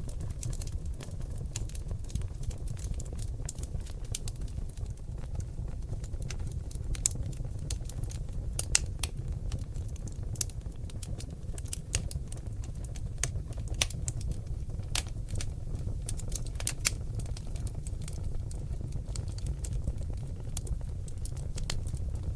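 Oak log fire in a fireplace crackling, with irregular sharp pops over a steady low rumble of the flames; a few louder pops come near the middle.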